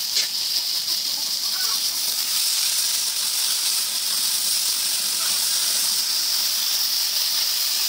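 Chopped vegetables sizzling in hot oil in an iron kadai, a steady hiss as they are stirred with a metal spatula.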